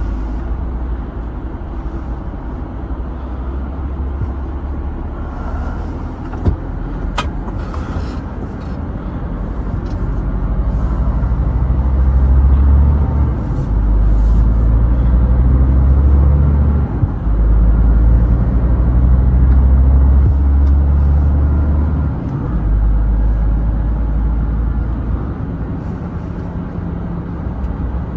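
Scania truck's diesel engine running under way with road noise, a deep drone that steps up and down in pitch and loudness through the middle. A couple of sharp clicks come about a quarter of the way in.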